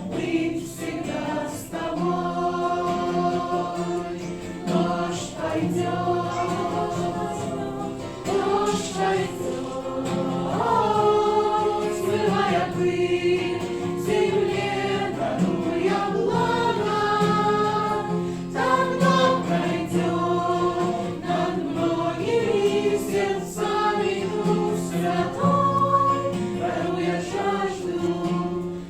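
Choir singing a Christian worship song, several voices together over sustained low notes.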